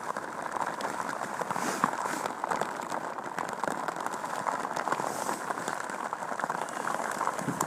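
Rain falling on a Gore-Tex bivy cover, heard from inside it: a steady, dense hiss of many small drop hits.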